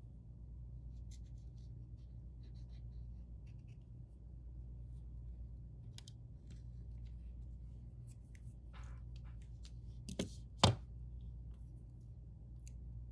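Small tools and fingers handling iPhone parts on a work mat: faint scattered clicks and scratches over a low steady hum, with two sharp clicks about half a second apart, the second one loud, about ten seconds in.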